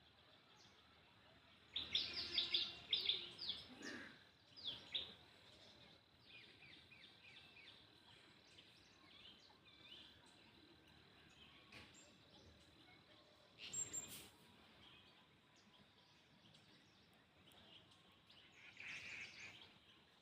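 Birds calling: a loud run of quick downward-sweeping chirps about two seconds in, then softer repeated chirps, a brief sharp sound about fourteen seconds in, and another call near the end. A faint steady high tone runs underneath.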